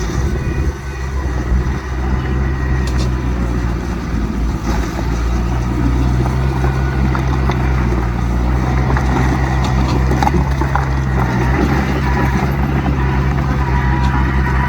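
Heavy diesel engine of earthmoving equipment running steadily at a low, even pitch, with a few faint clicks.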